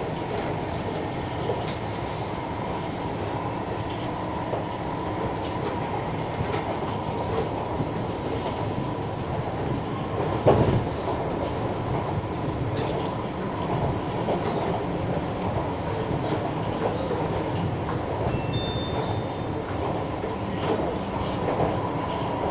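SMRT Siemens C651 metro train running along the track: a steady rumble of wheels on rail with a steady high hum. There is one loud clunk about ten seconds in.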